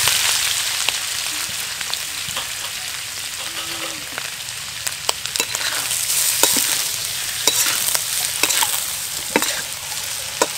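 Raw shrimp sizzling in hot oil in a wok while a metal wok spatula stirs them. The sizzle is loudest at the start and eases off, with sharp scrapes and taps of the spatula against the wok, more frequent in the second half.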